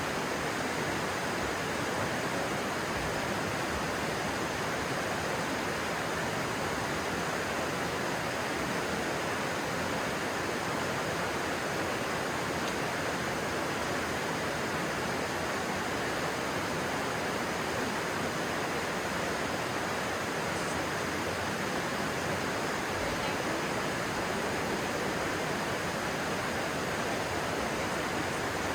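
A stream rushing steadily over rocks, an even hiss with no breaks.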